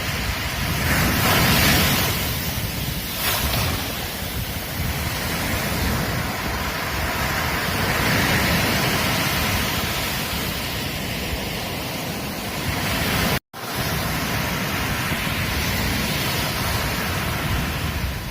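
Ocean surf breaking and washing up a beach, with swells of louder wash every few seconds and low wind rumble on the microphone. The sound cuts out for an instant about two-thirds of the way through.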